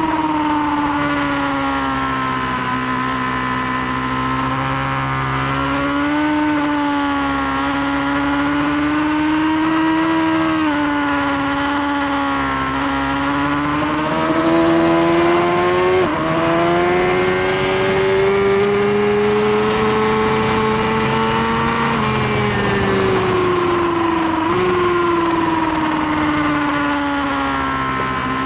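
2018 Suzuki GSX-R1000R's inline-four engine at high revs on a race track, heard from on board the bike, its pitch slowly climbing and falling with the throttle and jumping a little a few times, as at gear changes.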